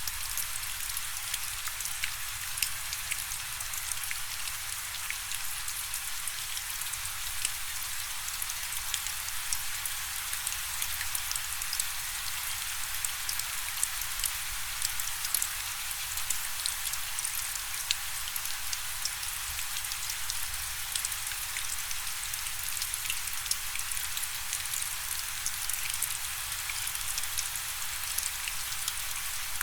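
Steady rainfall: an even hiss of rain with many small drop strikes pattering throughout.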